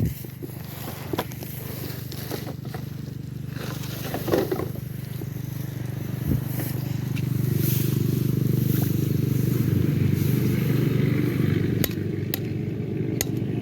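A small engine running steadily, growing louder about halfway through, with scattered clicks and scrapes over it.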